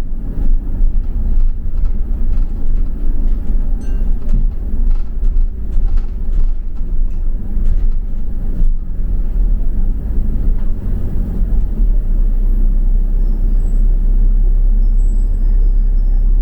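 Double-decker bus on the move, heard from on board: a deep, steady rumble of engine and road, with scattered light rattles and knocks during the first half.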